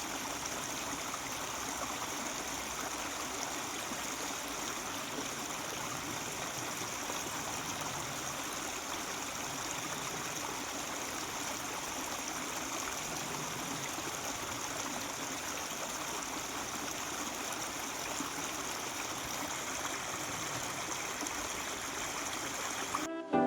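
Mountain stream running steadily. It cuts off abruptly just before the end, as music with a saxophone begins.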